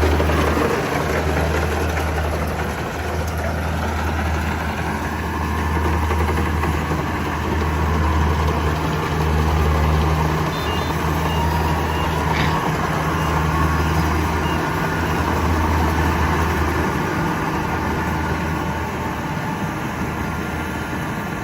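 Kubota combine harvester's diesel engine running steadily with a low, pulsing drone, and a faint machinery whine that rises in pitch a few seconds in.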